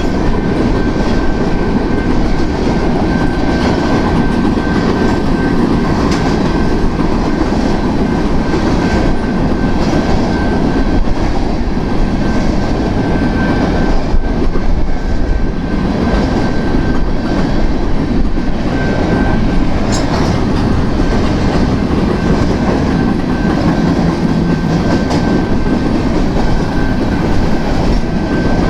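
A BNSF grain train's loaded freight cars rolling past at speed, with a loud, steady rumble of wheels on rail and a clickety-clack of wheels over rail joints. A thin, steady high-pitched whine runs over the rumble.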